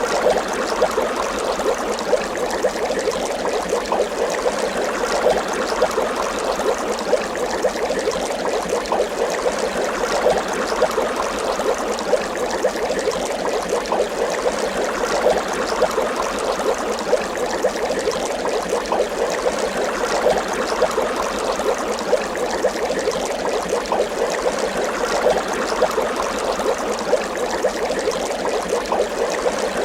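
Water bubbling steadily, a continuous dense stream of small bubble pops.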